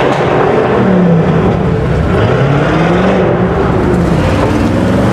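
Performance car engine accelerating hard, its note rising and falling a couple of times as it revs and shifts.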